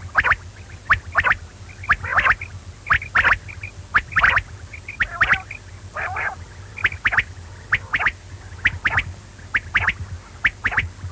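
Quail calling: short, sharp notes repeated two to three times a second, some in quick pairs, over a steady low hum.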